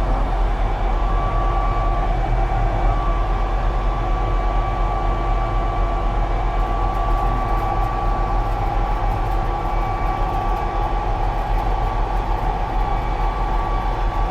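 A three-row cotton picker running at raised throttle with its air-conveying fan on: a steady engine drone with a steady high whine over it.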